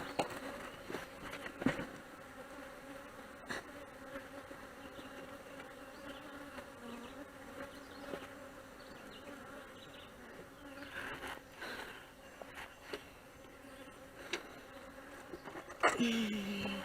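Honeybees buzzing steadily around an open hive, with a few light knocks from hive parts being handled. Near the end there is a louder, closer sound whose pitch drops.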